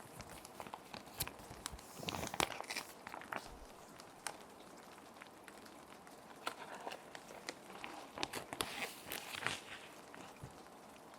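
Clear plastic sheet protectors being handled and sheets slid into them, crinkling and rustling in two bursts of crackles and clicks over a soft steady rain hiss.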